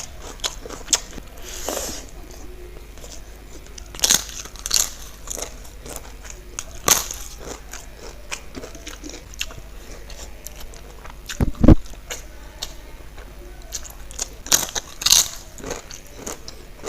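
Close-miked eating of egg curry with rice: chewing with wet mouth smacks and sharp clicks in scattered bursts, and one loud low thump about twelve seconds in.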